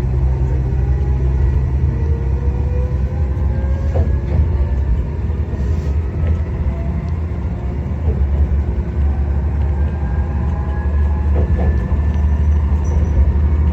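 Tarumi Railway Haimo 295 diesel railcar running along the line. A steady low engine rumble sits under a whine that slowly rises in pitch, with an occasional click from the wheels on the rails.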